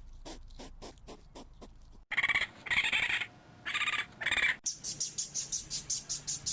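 Recorded animal calls, three kinds one after another: a string of short clicks or squeaks about four a second, then three longer calls, then a fast run of high chirps.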